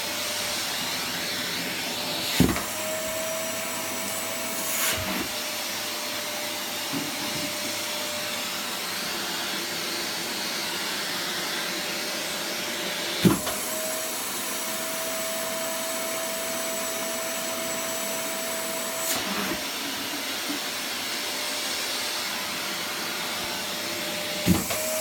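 Electric vacuum cleaner running steadily while balls are caught on its nozzle. Sharp knocks come now and then, about five in all. Twice a steady whistling tone holds for a few seconds between two knocks.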